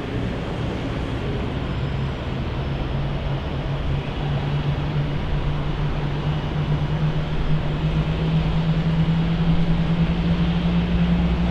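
Jet airliner engine noise: a steady low hum over a broad rush, slowly rising a little in pitch and growing louder.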